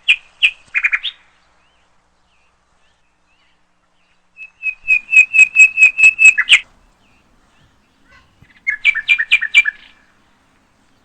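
Bird chirping in three bouts: a quick burst of notes at the start, a fast run of about ten clear, even chirps around the middle, and a shorter trill of doubled notes near the end.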